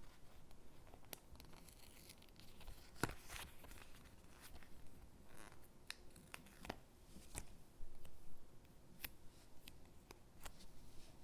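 Stickers being peeled from a backing sheet and pressed onto paper gingerbread cutouts: quiet soft rustling of paper with a handful of short, sharp ticks.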